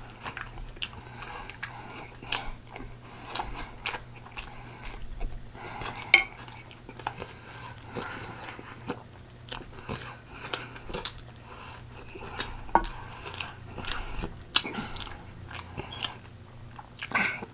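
Close-miked eating sounds: a person chewing and biting into pig feet, with many irregular sharp clicks from the mouth.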